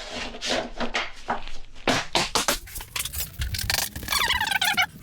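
Hammer tapping repeatedly in quick, irregular strikes on a block held against a vinyl plank, knocking the plank over to close the gap in its joint. A short pitched sound comes near the end.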